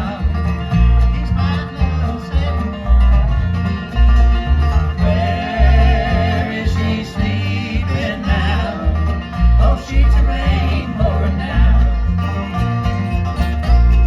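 Bluegrass band playing a song: banjo and guitar picking over a steady, regular bass beat.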